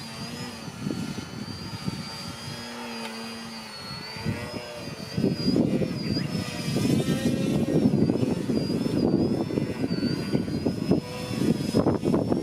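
Electric motor and propeller of a radio-controlled TechOne Slick model aerobatic plane flying, a thin high whine that rises and falls with the throttle. Strong wind buffets the microphone with a loud rumble from about five seconds in.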